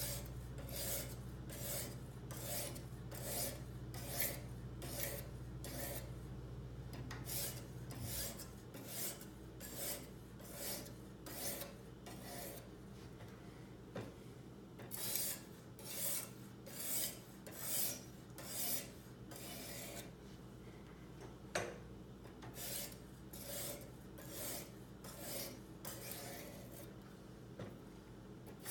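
A sharpening stone on a Kazak UBR guided knife sharpener rasps along the edge of a large kitchen knife in upward-only strokes. The strokes come in runs of about one and a half to two a second, with short pauses between the runs. There is one sharp click about two thirds of the way through.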